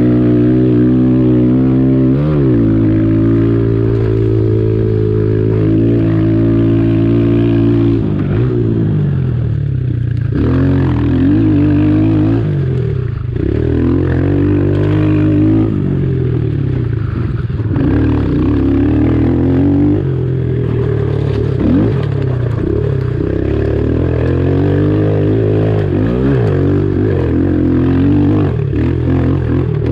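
A pit bike's small single-cylinder engine being ridden hard: steady at first, then revving up and dropping off again and again with the throttle and gear changes.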